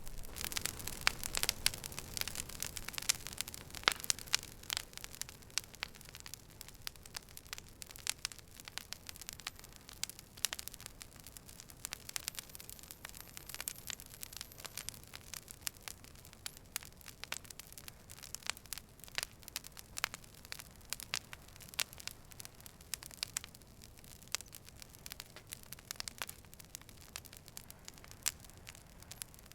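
Campfire crackling, wood snapping and popping in many sharp irregular clicks over a soft hiss. The pops come thickest in the first few seconds.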